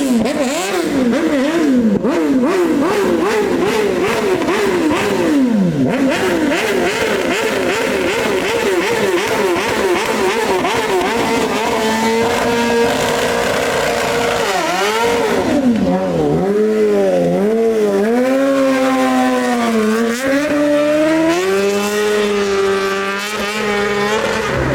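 Loud BMW motorcycle engine revving: quick repeated blips of the throttle, about two a second, for roughly the first half, then held steadier and swung up and down in slower, longer revs.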